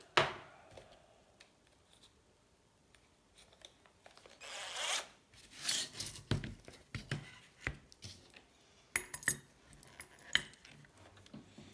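Small clicks and knocks with a short rasping, ratchety rustle about four and a half seconds in, as a 3 mm drill bit is picked out and fitted into a keyless drill chuck.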